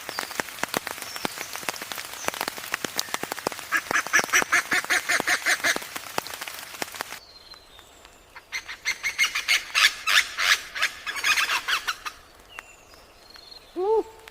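A bird giving rapid runs of harsh, nasal, honking calls in two bouts, about four seconds in and again about nine seconds in. A steady patter of rain runs under the first half and stops about seven seconds in.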